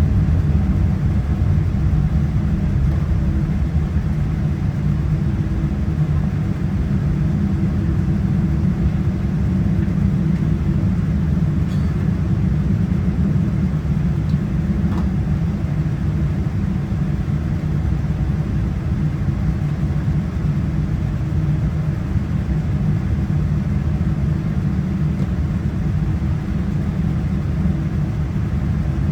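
Boeing 787-9 airliner cabin noise with the engines running: a steady low rumble with a faint hum, holding level throughout.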